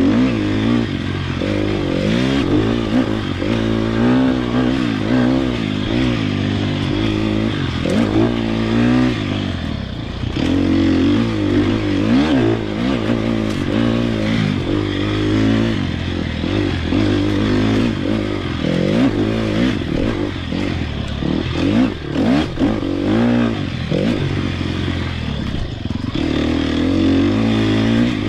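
Sherco SEF 300 Factory's single-cylinder four-stroke engine revving up and down over and over as the enduro motorcycle is ridden over rough forest trail, its pitch rising and falling every second or two.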